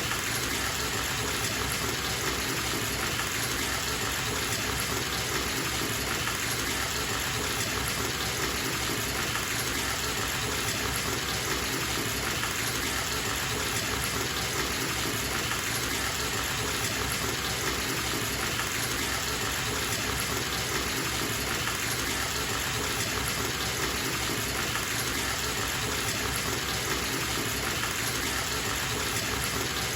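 Bathtub tap running full, water gushing into a filling tub with a steady, unchanging rush.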